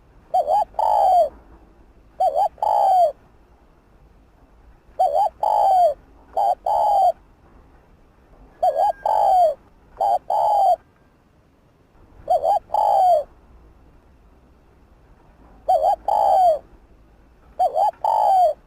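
Spotted dove cooing: short phrases of rounded coo notes, repeated every two seconds or so with pauses between.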